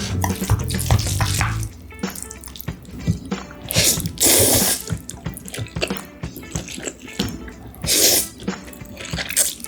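Wet slurping of spicy stir-fried noodles: a long loud slurp about four seconds in and a shorter one about eight seconds in, with smaller wet mouth clicks between them. Background music plays for the first second or two.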